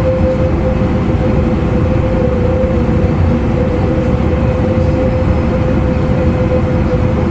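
E259 series electric train running at steady speed, heard inside a motor car: a constant rumble from wheels and track with a steady whine from the traction motors.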